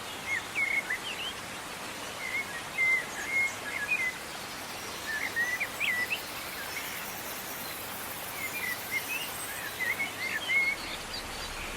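Water of a stream running steadily, with small birds singing short warbling chirps in four or five bursts.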